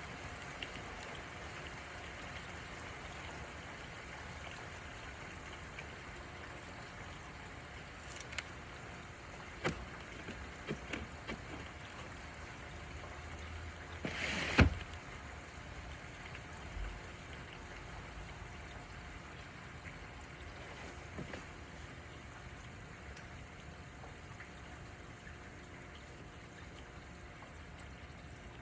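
Steady rain falling, an even hiss with scattered single drops ticking close by. A louder knock comes about halfway through.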